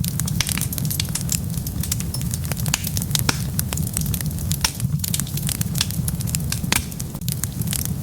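Wood fire burning with a steady low rumble and frequent sharp crackles and pops, several a second.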